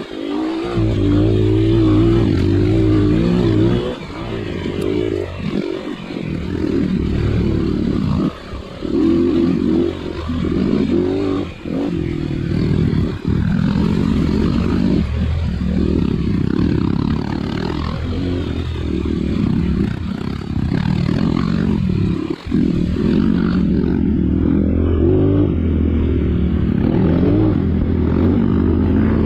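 Trail motorcycle engine being ridden, its note rising and falling with the throttle, with several brief drops where the throttle is shut off.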